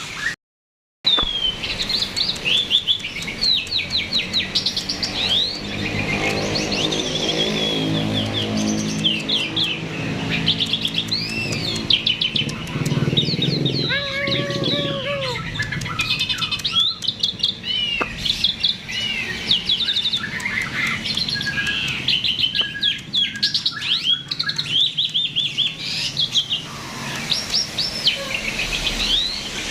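Jalak (Indonesian starling) singing nonstop in a rapid, varied stream of high chirps and whistles, the lively full song birdkeepers play to spur other birds into song. The sound cuts out briefly just under a second in, and a lower warbling phrase runs underneath from about six to fourteen seconds.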